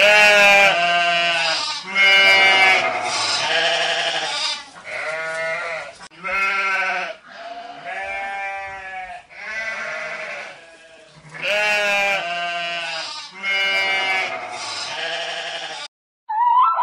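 Sheep bleating: a run of about eight long, wavering bleats, one after another with short gaps.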